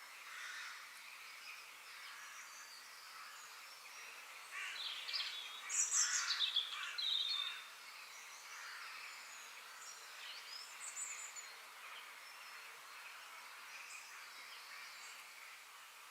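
Wild birds chirping and singing over a steady background hiss, with one bird's song louder for about three seconds near the middle.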